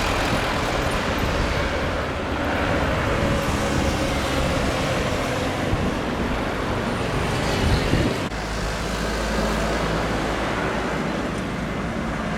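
Steady engine and traffic noise, with an abrupt change about eight seconds in to a steadier low hum.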